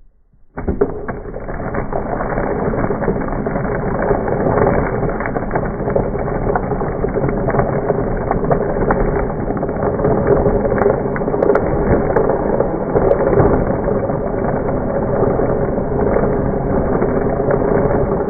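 Countertop blender motor running steadily while blending ice cream bars with milk, played back slowed down so it sounds deep and dull. It starts abruptly about half a second in.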